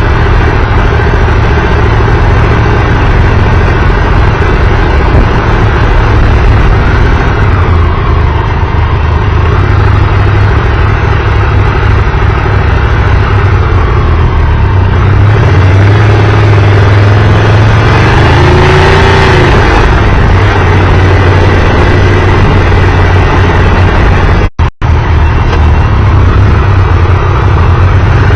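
Triumph Tiger Explorer 1200 inline-three engine running steadily while the motorcycle is ridden along the road, under a constant rush of wind and road noise. The sound cuts out twice for an instant about three-quarters of the way through.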